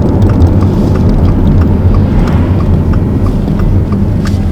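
Low rumble of a car driving, heard inside the cabin, with the turn-signal indicator ticking steadily at about three ticks a second as the car signals to turn.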